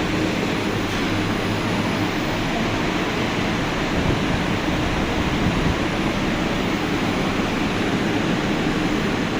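Steady rushing noise with a low hum from running industrial machinery.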